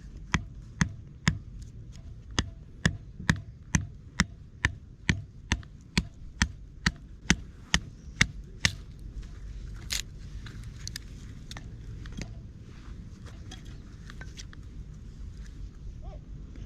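Wood being chopped: about twenty sharp, evenly spaced strikes, roughly two a second, lasting around nine seconds. These are followed by one louder knock and then scattered lighter taps.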